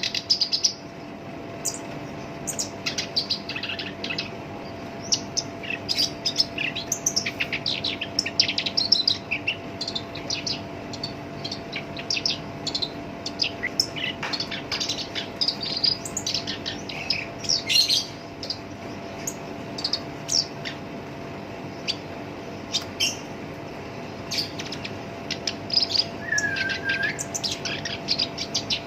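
Black-browed reed warbler singing continuously: rapid runs of harsh, scratchy chattering notes, with a brief lull about two-thirds of the way through, over a faint steady hum.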